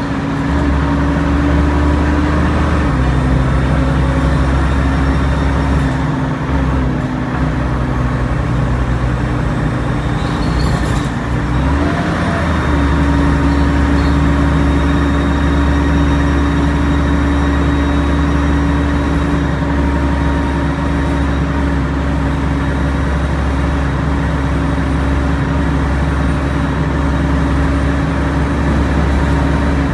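Alexander Dennis Trident Enviro 500 double-decker bus's engine and ZF automatic gearbox pulling steadily uphill, with the jet-like whine known as its airplane sound. There is a gear change about twelve seconds in.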